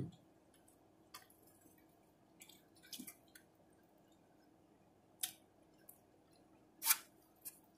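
Faint eating sounds from someone chewing a hoagie: a scattering of short, wet mouth smacks and clicks, the loudest near the end.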